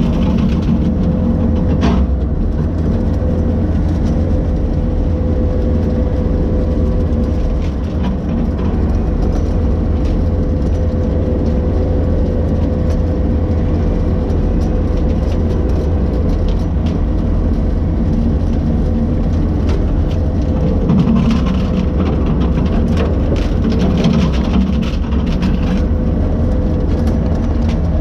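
Heavy engine running steadily at working speed, with a constant whine over its low drone and a louder patch about two-thirds of the way through.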